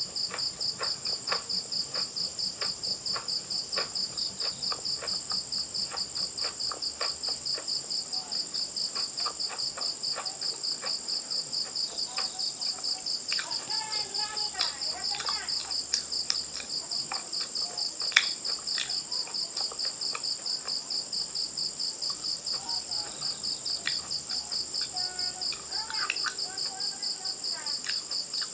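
Crickets chirping in a steady, even pulse several times a second. Scattered crisp crunching clicks of chewing run through it, with one sharper crunch a little past the middle.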